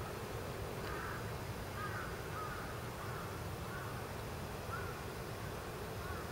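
A few faint, short bird calls spaced a second or so apart, over a steady low outdoor rumble.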